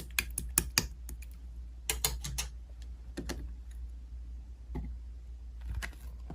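Slime being pressed and worked by hand, making irregular sharp clicks and pops, several a second at first and then sparser.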